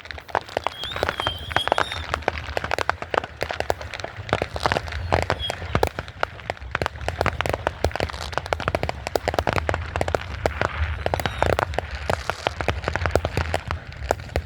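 Fireworks going off in rapid succession: a dense, continuous crackle of pops and bangs over a low rumble, with a brief high whistle about a second in.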